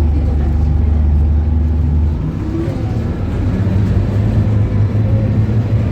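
Scania K280UB bus's DC9 five-cylinder diesel engine running, with its steady low hum changing abruptly about two seconds in and then building again as the engine note rises.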